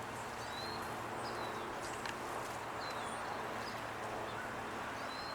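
Small songbirds calling: short, high chirps repeated every second or so over a steady background hiss.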